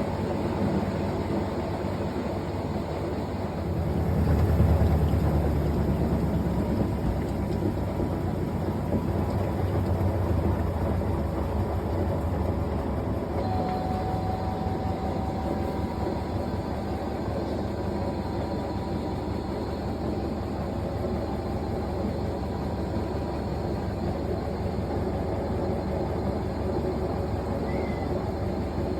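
Fisher & Paykel GW712 top-loading washing machine running through its wash cycle: a steady low mechanical rumble that swells briefly about four seconds in.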